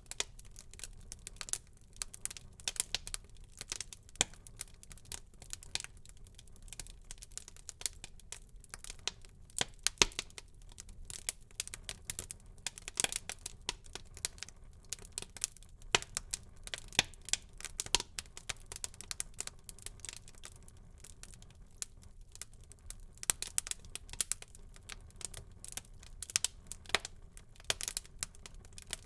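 Wood fire burning in a fireplace and crackling: irregular sharp pops and snaps, several a second, some much louder than others.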